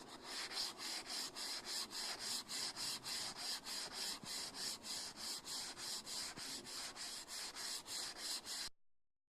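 Hand sanding on a bass guitar kit: sandpaper rubbed back and forth in steady strokes, about three a second, that stop abruptly near the end.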